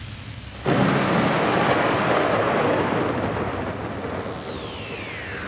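Rain and thunder sample opening a dance track. A soft rain hiss is broken about 0.7 s in by a sudden loud thunderclap, and heavy rain slowly dies away after it. About four seconds in, a high tone begins gliding steadily downward.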